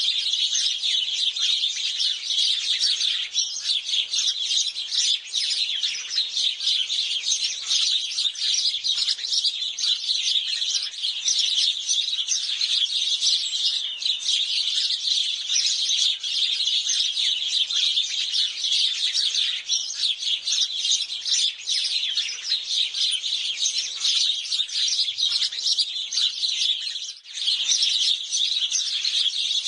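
A flock of house sparrows chirping in a dense, continuous chorus of short chirps, with a brief lull near the end.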